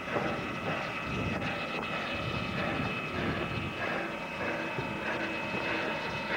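A train running: steady mechanical noise with a thin, high, steady whine over it.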